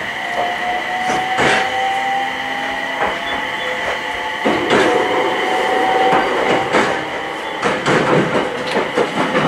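Aoimori Railway electric train running, heard from inside the passenger car: a steady high whine over the running noise, a lower motor tone rising slowly, and wheels clacking over rail joints, the clacks coming thicker in the second half.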